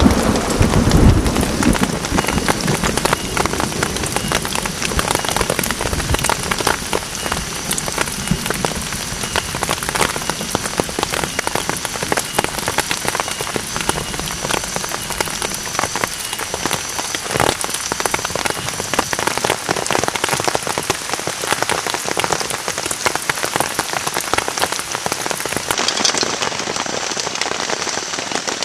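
Heavy rain falling steadily on a camp shelter, individual drops ticking sharply over a dense hiss. A low rumble sounds in the first second or two.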